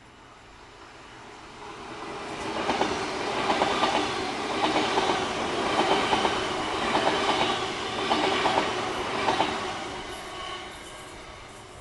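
A train passing, its wheels clacking in quick groups over the rail joints. It builds up over the first few seconds, runs loudest through the middle and fades away near the end.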